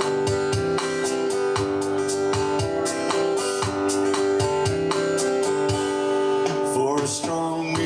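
Acoustic guitar strummed in a steady, even rhythm, holding chords with no singing.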